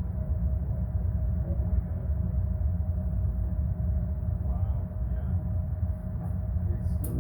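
Armstrong Air furnace running after startup: a steady low rumble with a constant hum.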